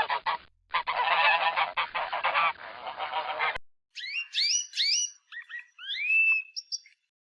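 A flock of geese honking together in a dense clamour, which cuts off about three and a half seconds in. A different clip follows: a string of high, rising whistled calls for about three seconds.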